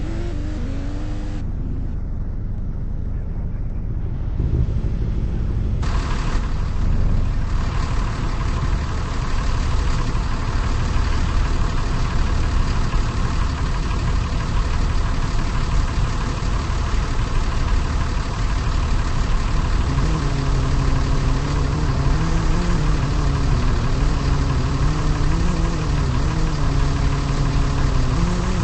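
A car engine running at idle with a steady low rumble. About twenty seconds in, a low droning pitch begins to waver up and down.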